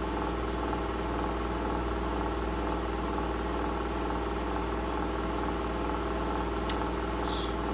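Steady mechanical hum made up of several constant tones, with a few short clicks near the end.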